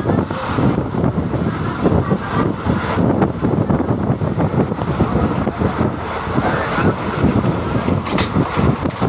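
A passenger train running along the track: a steady rumble with continual rattling and clatter of wheels and coaches.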